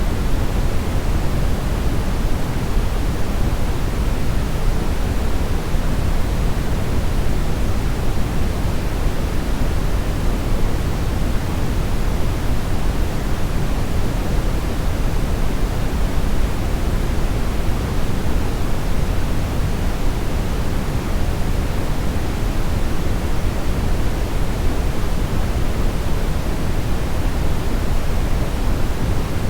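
Steady synthetic brownish noise: an even, unbroken hiss weighted toward the bass, with no events or changes.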